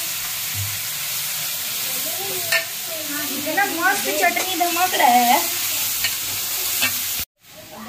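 Ground spice paste (masala) frying in hot oil in a wok, a steady sizzle as it is stirred: the masala being fried as the base of a fish curry. A voice is heard briefly around the middle, and the sound cuts off abruptly near the end.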